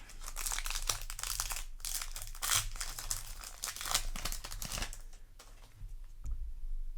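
Foil Yu-Gi-Oh! booster pack wrapper being torn open and crinkled in the hands: dense crinkling for about five seconds, then only a few faint clicks near the end.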